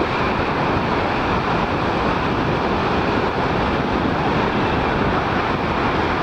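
Boeing 767 jet engines giving a loud, steady roar as the airliner passes.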